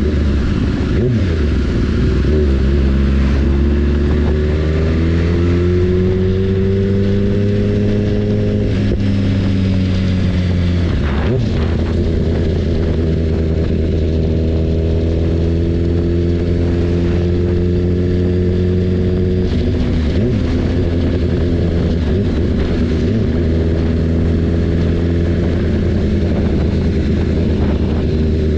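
BMW S1000RR's inline-four engine pulling under way, its pitch climbing slowly and then dropping sharply about nine seconds in, shifting again near eleven seconds, and changing once more a little past halfway, over a steady rushing noise.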